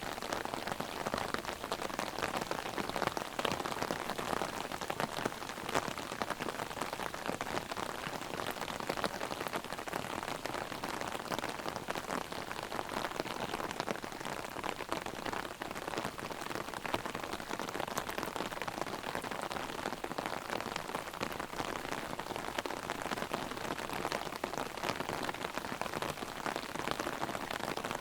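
Rain hitting an open umbrella overhead: a steady, dense patter of drops.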